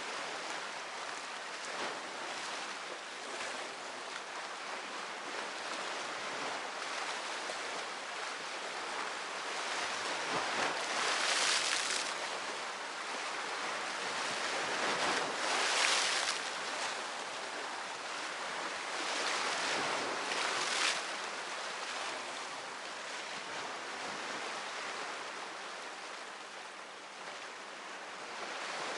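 Sea surf: a steady wash of waves with three louder breakers swelling and falling away near the middle.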